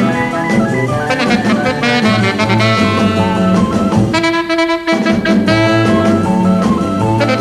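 Late-1950s instrumental rock and roll record with saxophone lead over bass and drums. About four seconds in, the rhythm section drops out for roughly a second under a single held chord, then the band comes back in.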